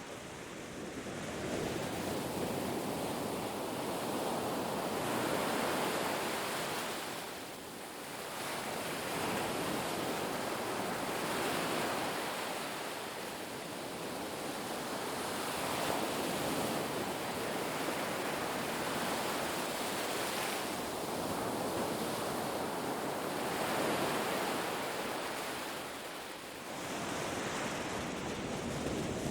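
Ocean surf on a beach: a continuous wash of breaking waves that swells and eases, with a lull about every six seconds.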